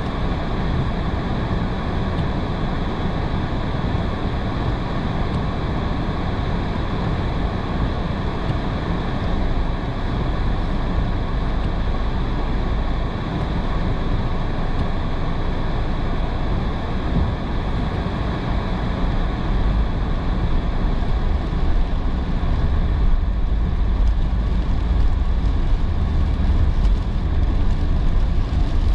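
Car driving on a wet road in heavy rain: steady tyre and road noise with rain hiss over a low rumble, the rumble growing a little louder in the second half.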